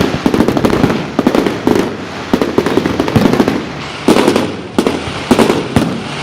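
Fireworks display exploding: a quick run of bangs and crackles, then several louder separate booms in the second half.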